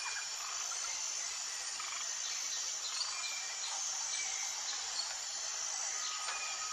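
Jungle ambience: a steady high-pitched drone of insects with scattered short bird chirps and whistles over it. A steady single note from another insect or bird joins near the end.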